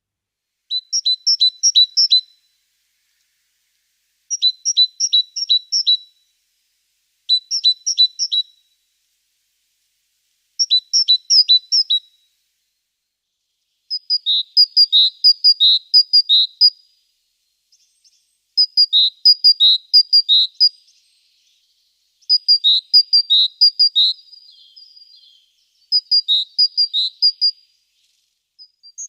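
A songbird singing short phrases of quick, high repeated notes, a phrase every three to four seconds, with near silence between them.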